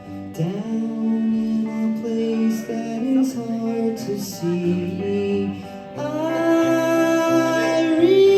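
Live band playing a song, with held sung notes and guitar.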